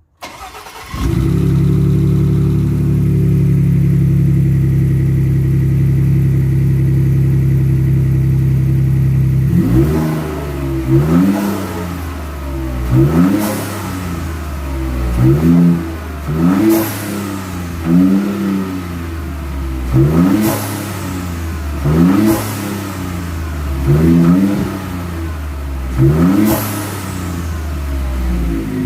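Ford F-150's 2.7 L EcoBoost twin-turbo V6 starting from cold and running at a steady fast idle. About ten seconds in it starts being blipped over and over, roughly every two seconds, rising and falling, with a short sharp hiss at the top of each blip from the turbo blow-off valve.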